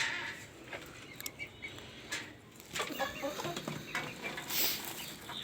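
Baladi chickens clucking amid scattered rustles and knocks, with a short rushing noise about four and a half seconds in.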